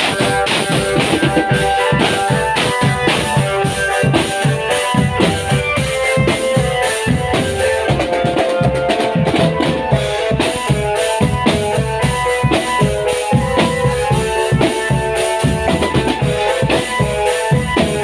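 Marching drum band playing: bass and snare drums keep a steady rhythm under a melody of held notes.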